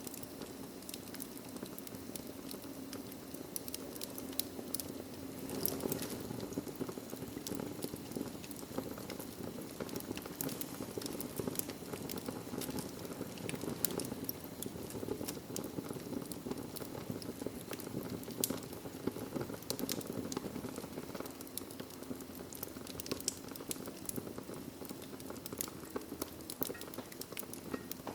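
Wood fire burning in a fireplace: a steady low rush with many small, sharp crackles and pops scattered irregularly through it.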